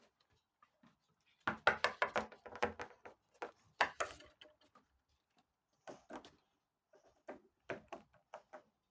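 Small plastic toy figures and playset parts handled on a hard surface: a run of clicks, taps and light knocks in several clusters.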